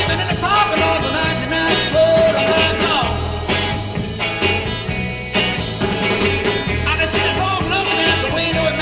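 A 1960s garage-rock band recording playing, with bass, drums and guitars.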